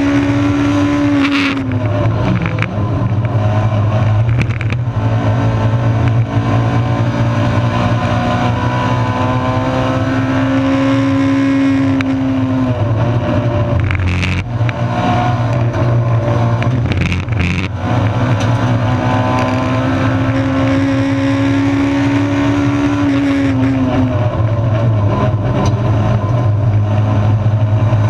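Honda 1600 race car engine heard from inside the stripped cabin, pulling hard. Its revs climb slowly through the gears and drop abruptly three times: about two seconds in, about halfway through, and near the end. A few sharp knocks come just after the middle.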